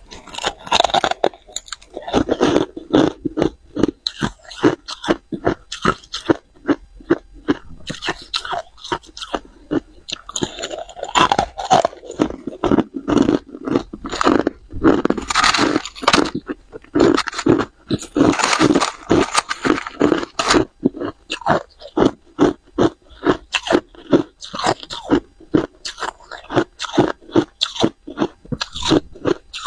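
A person biting and chewing hard ice close up: a fast run of sharp, loud crunches, several a second, with denser grinding stretches in the middle.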